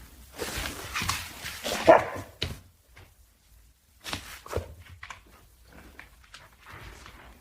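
A dog barking several times, with a pause of about a second and a half midway.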